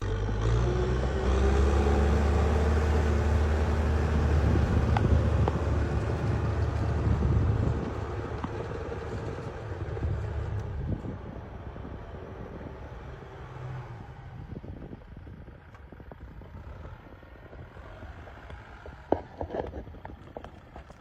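Tractor engine running loud and steady, then dropping away and fading from about eight seconds in. A few short knocks come near the end.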